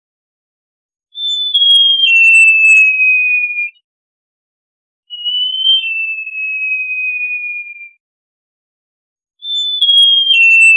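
Great jacamar singing: long, clear whistles, each starting high, dropping in a step or two and then sliding slowly lower, about two and a half seconds each. There are three in a row, with pauses of a second or two between, the last starting near the end.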